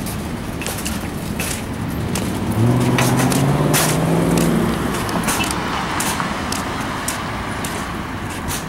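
Outdoor road traffic: a motor vehicle's engine hum swells and fades as it passes, loudest about three to four seconds in, over steady traffic noise with scattered clicks.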